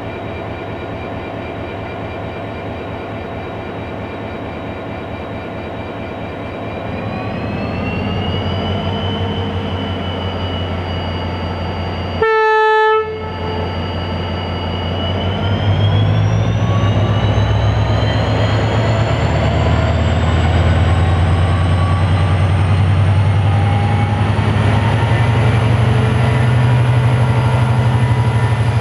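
CIE 071 class diesel-electric locomotive's EMD 12-645 engine running, then revving up in steps as it takes power. A short horn blast sounds about twelve seconds in, and after it the engine gets louder and rises steadily in pitch as the train pulls away.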